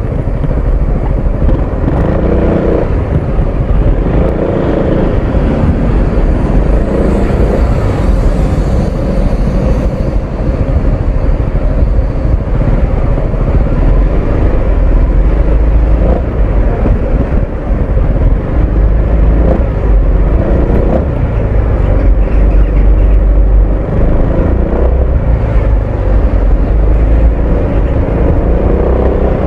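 Honda ADV 350 scooter's single-cylinder engine and exhaust under way, the engine note rising and falling with the throttle over a steady low rumble.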